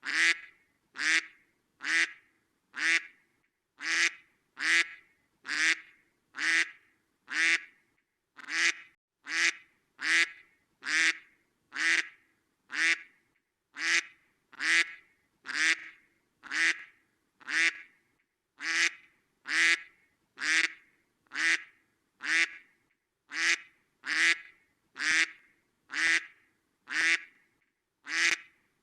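Duck quacking: single short quacks repeated evenly, about one a second, with silence between each.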